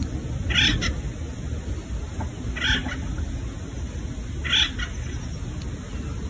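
A bird calling: a short call repeated about every two seconds, four times, over a steady low rumble.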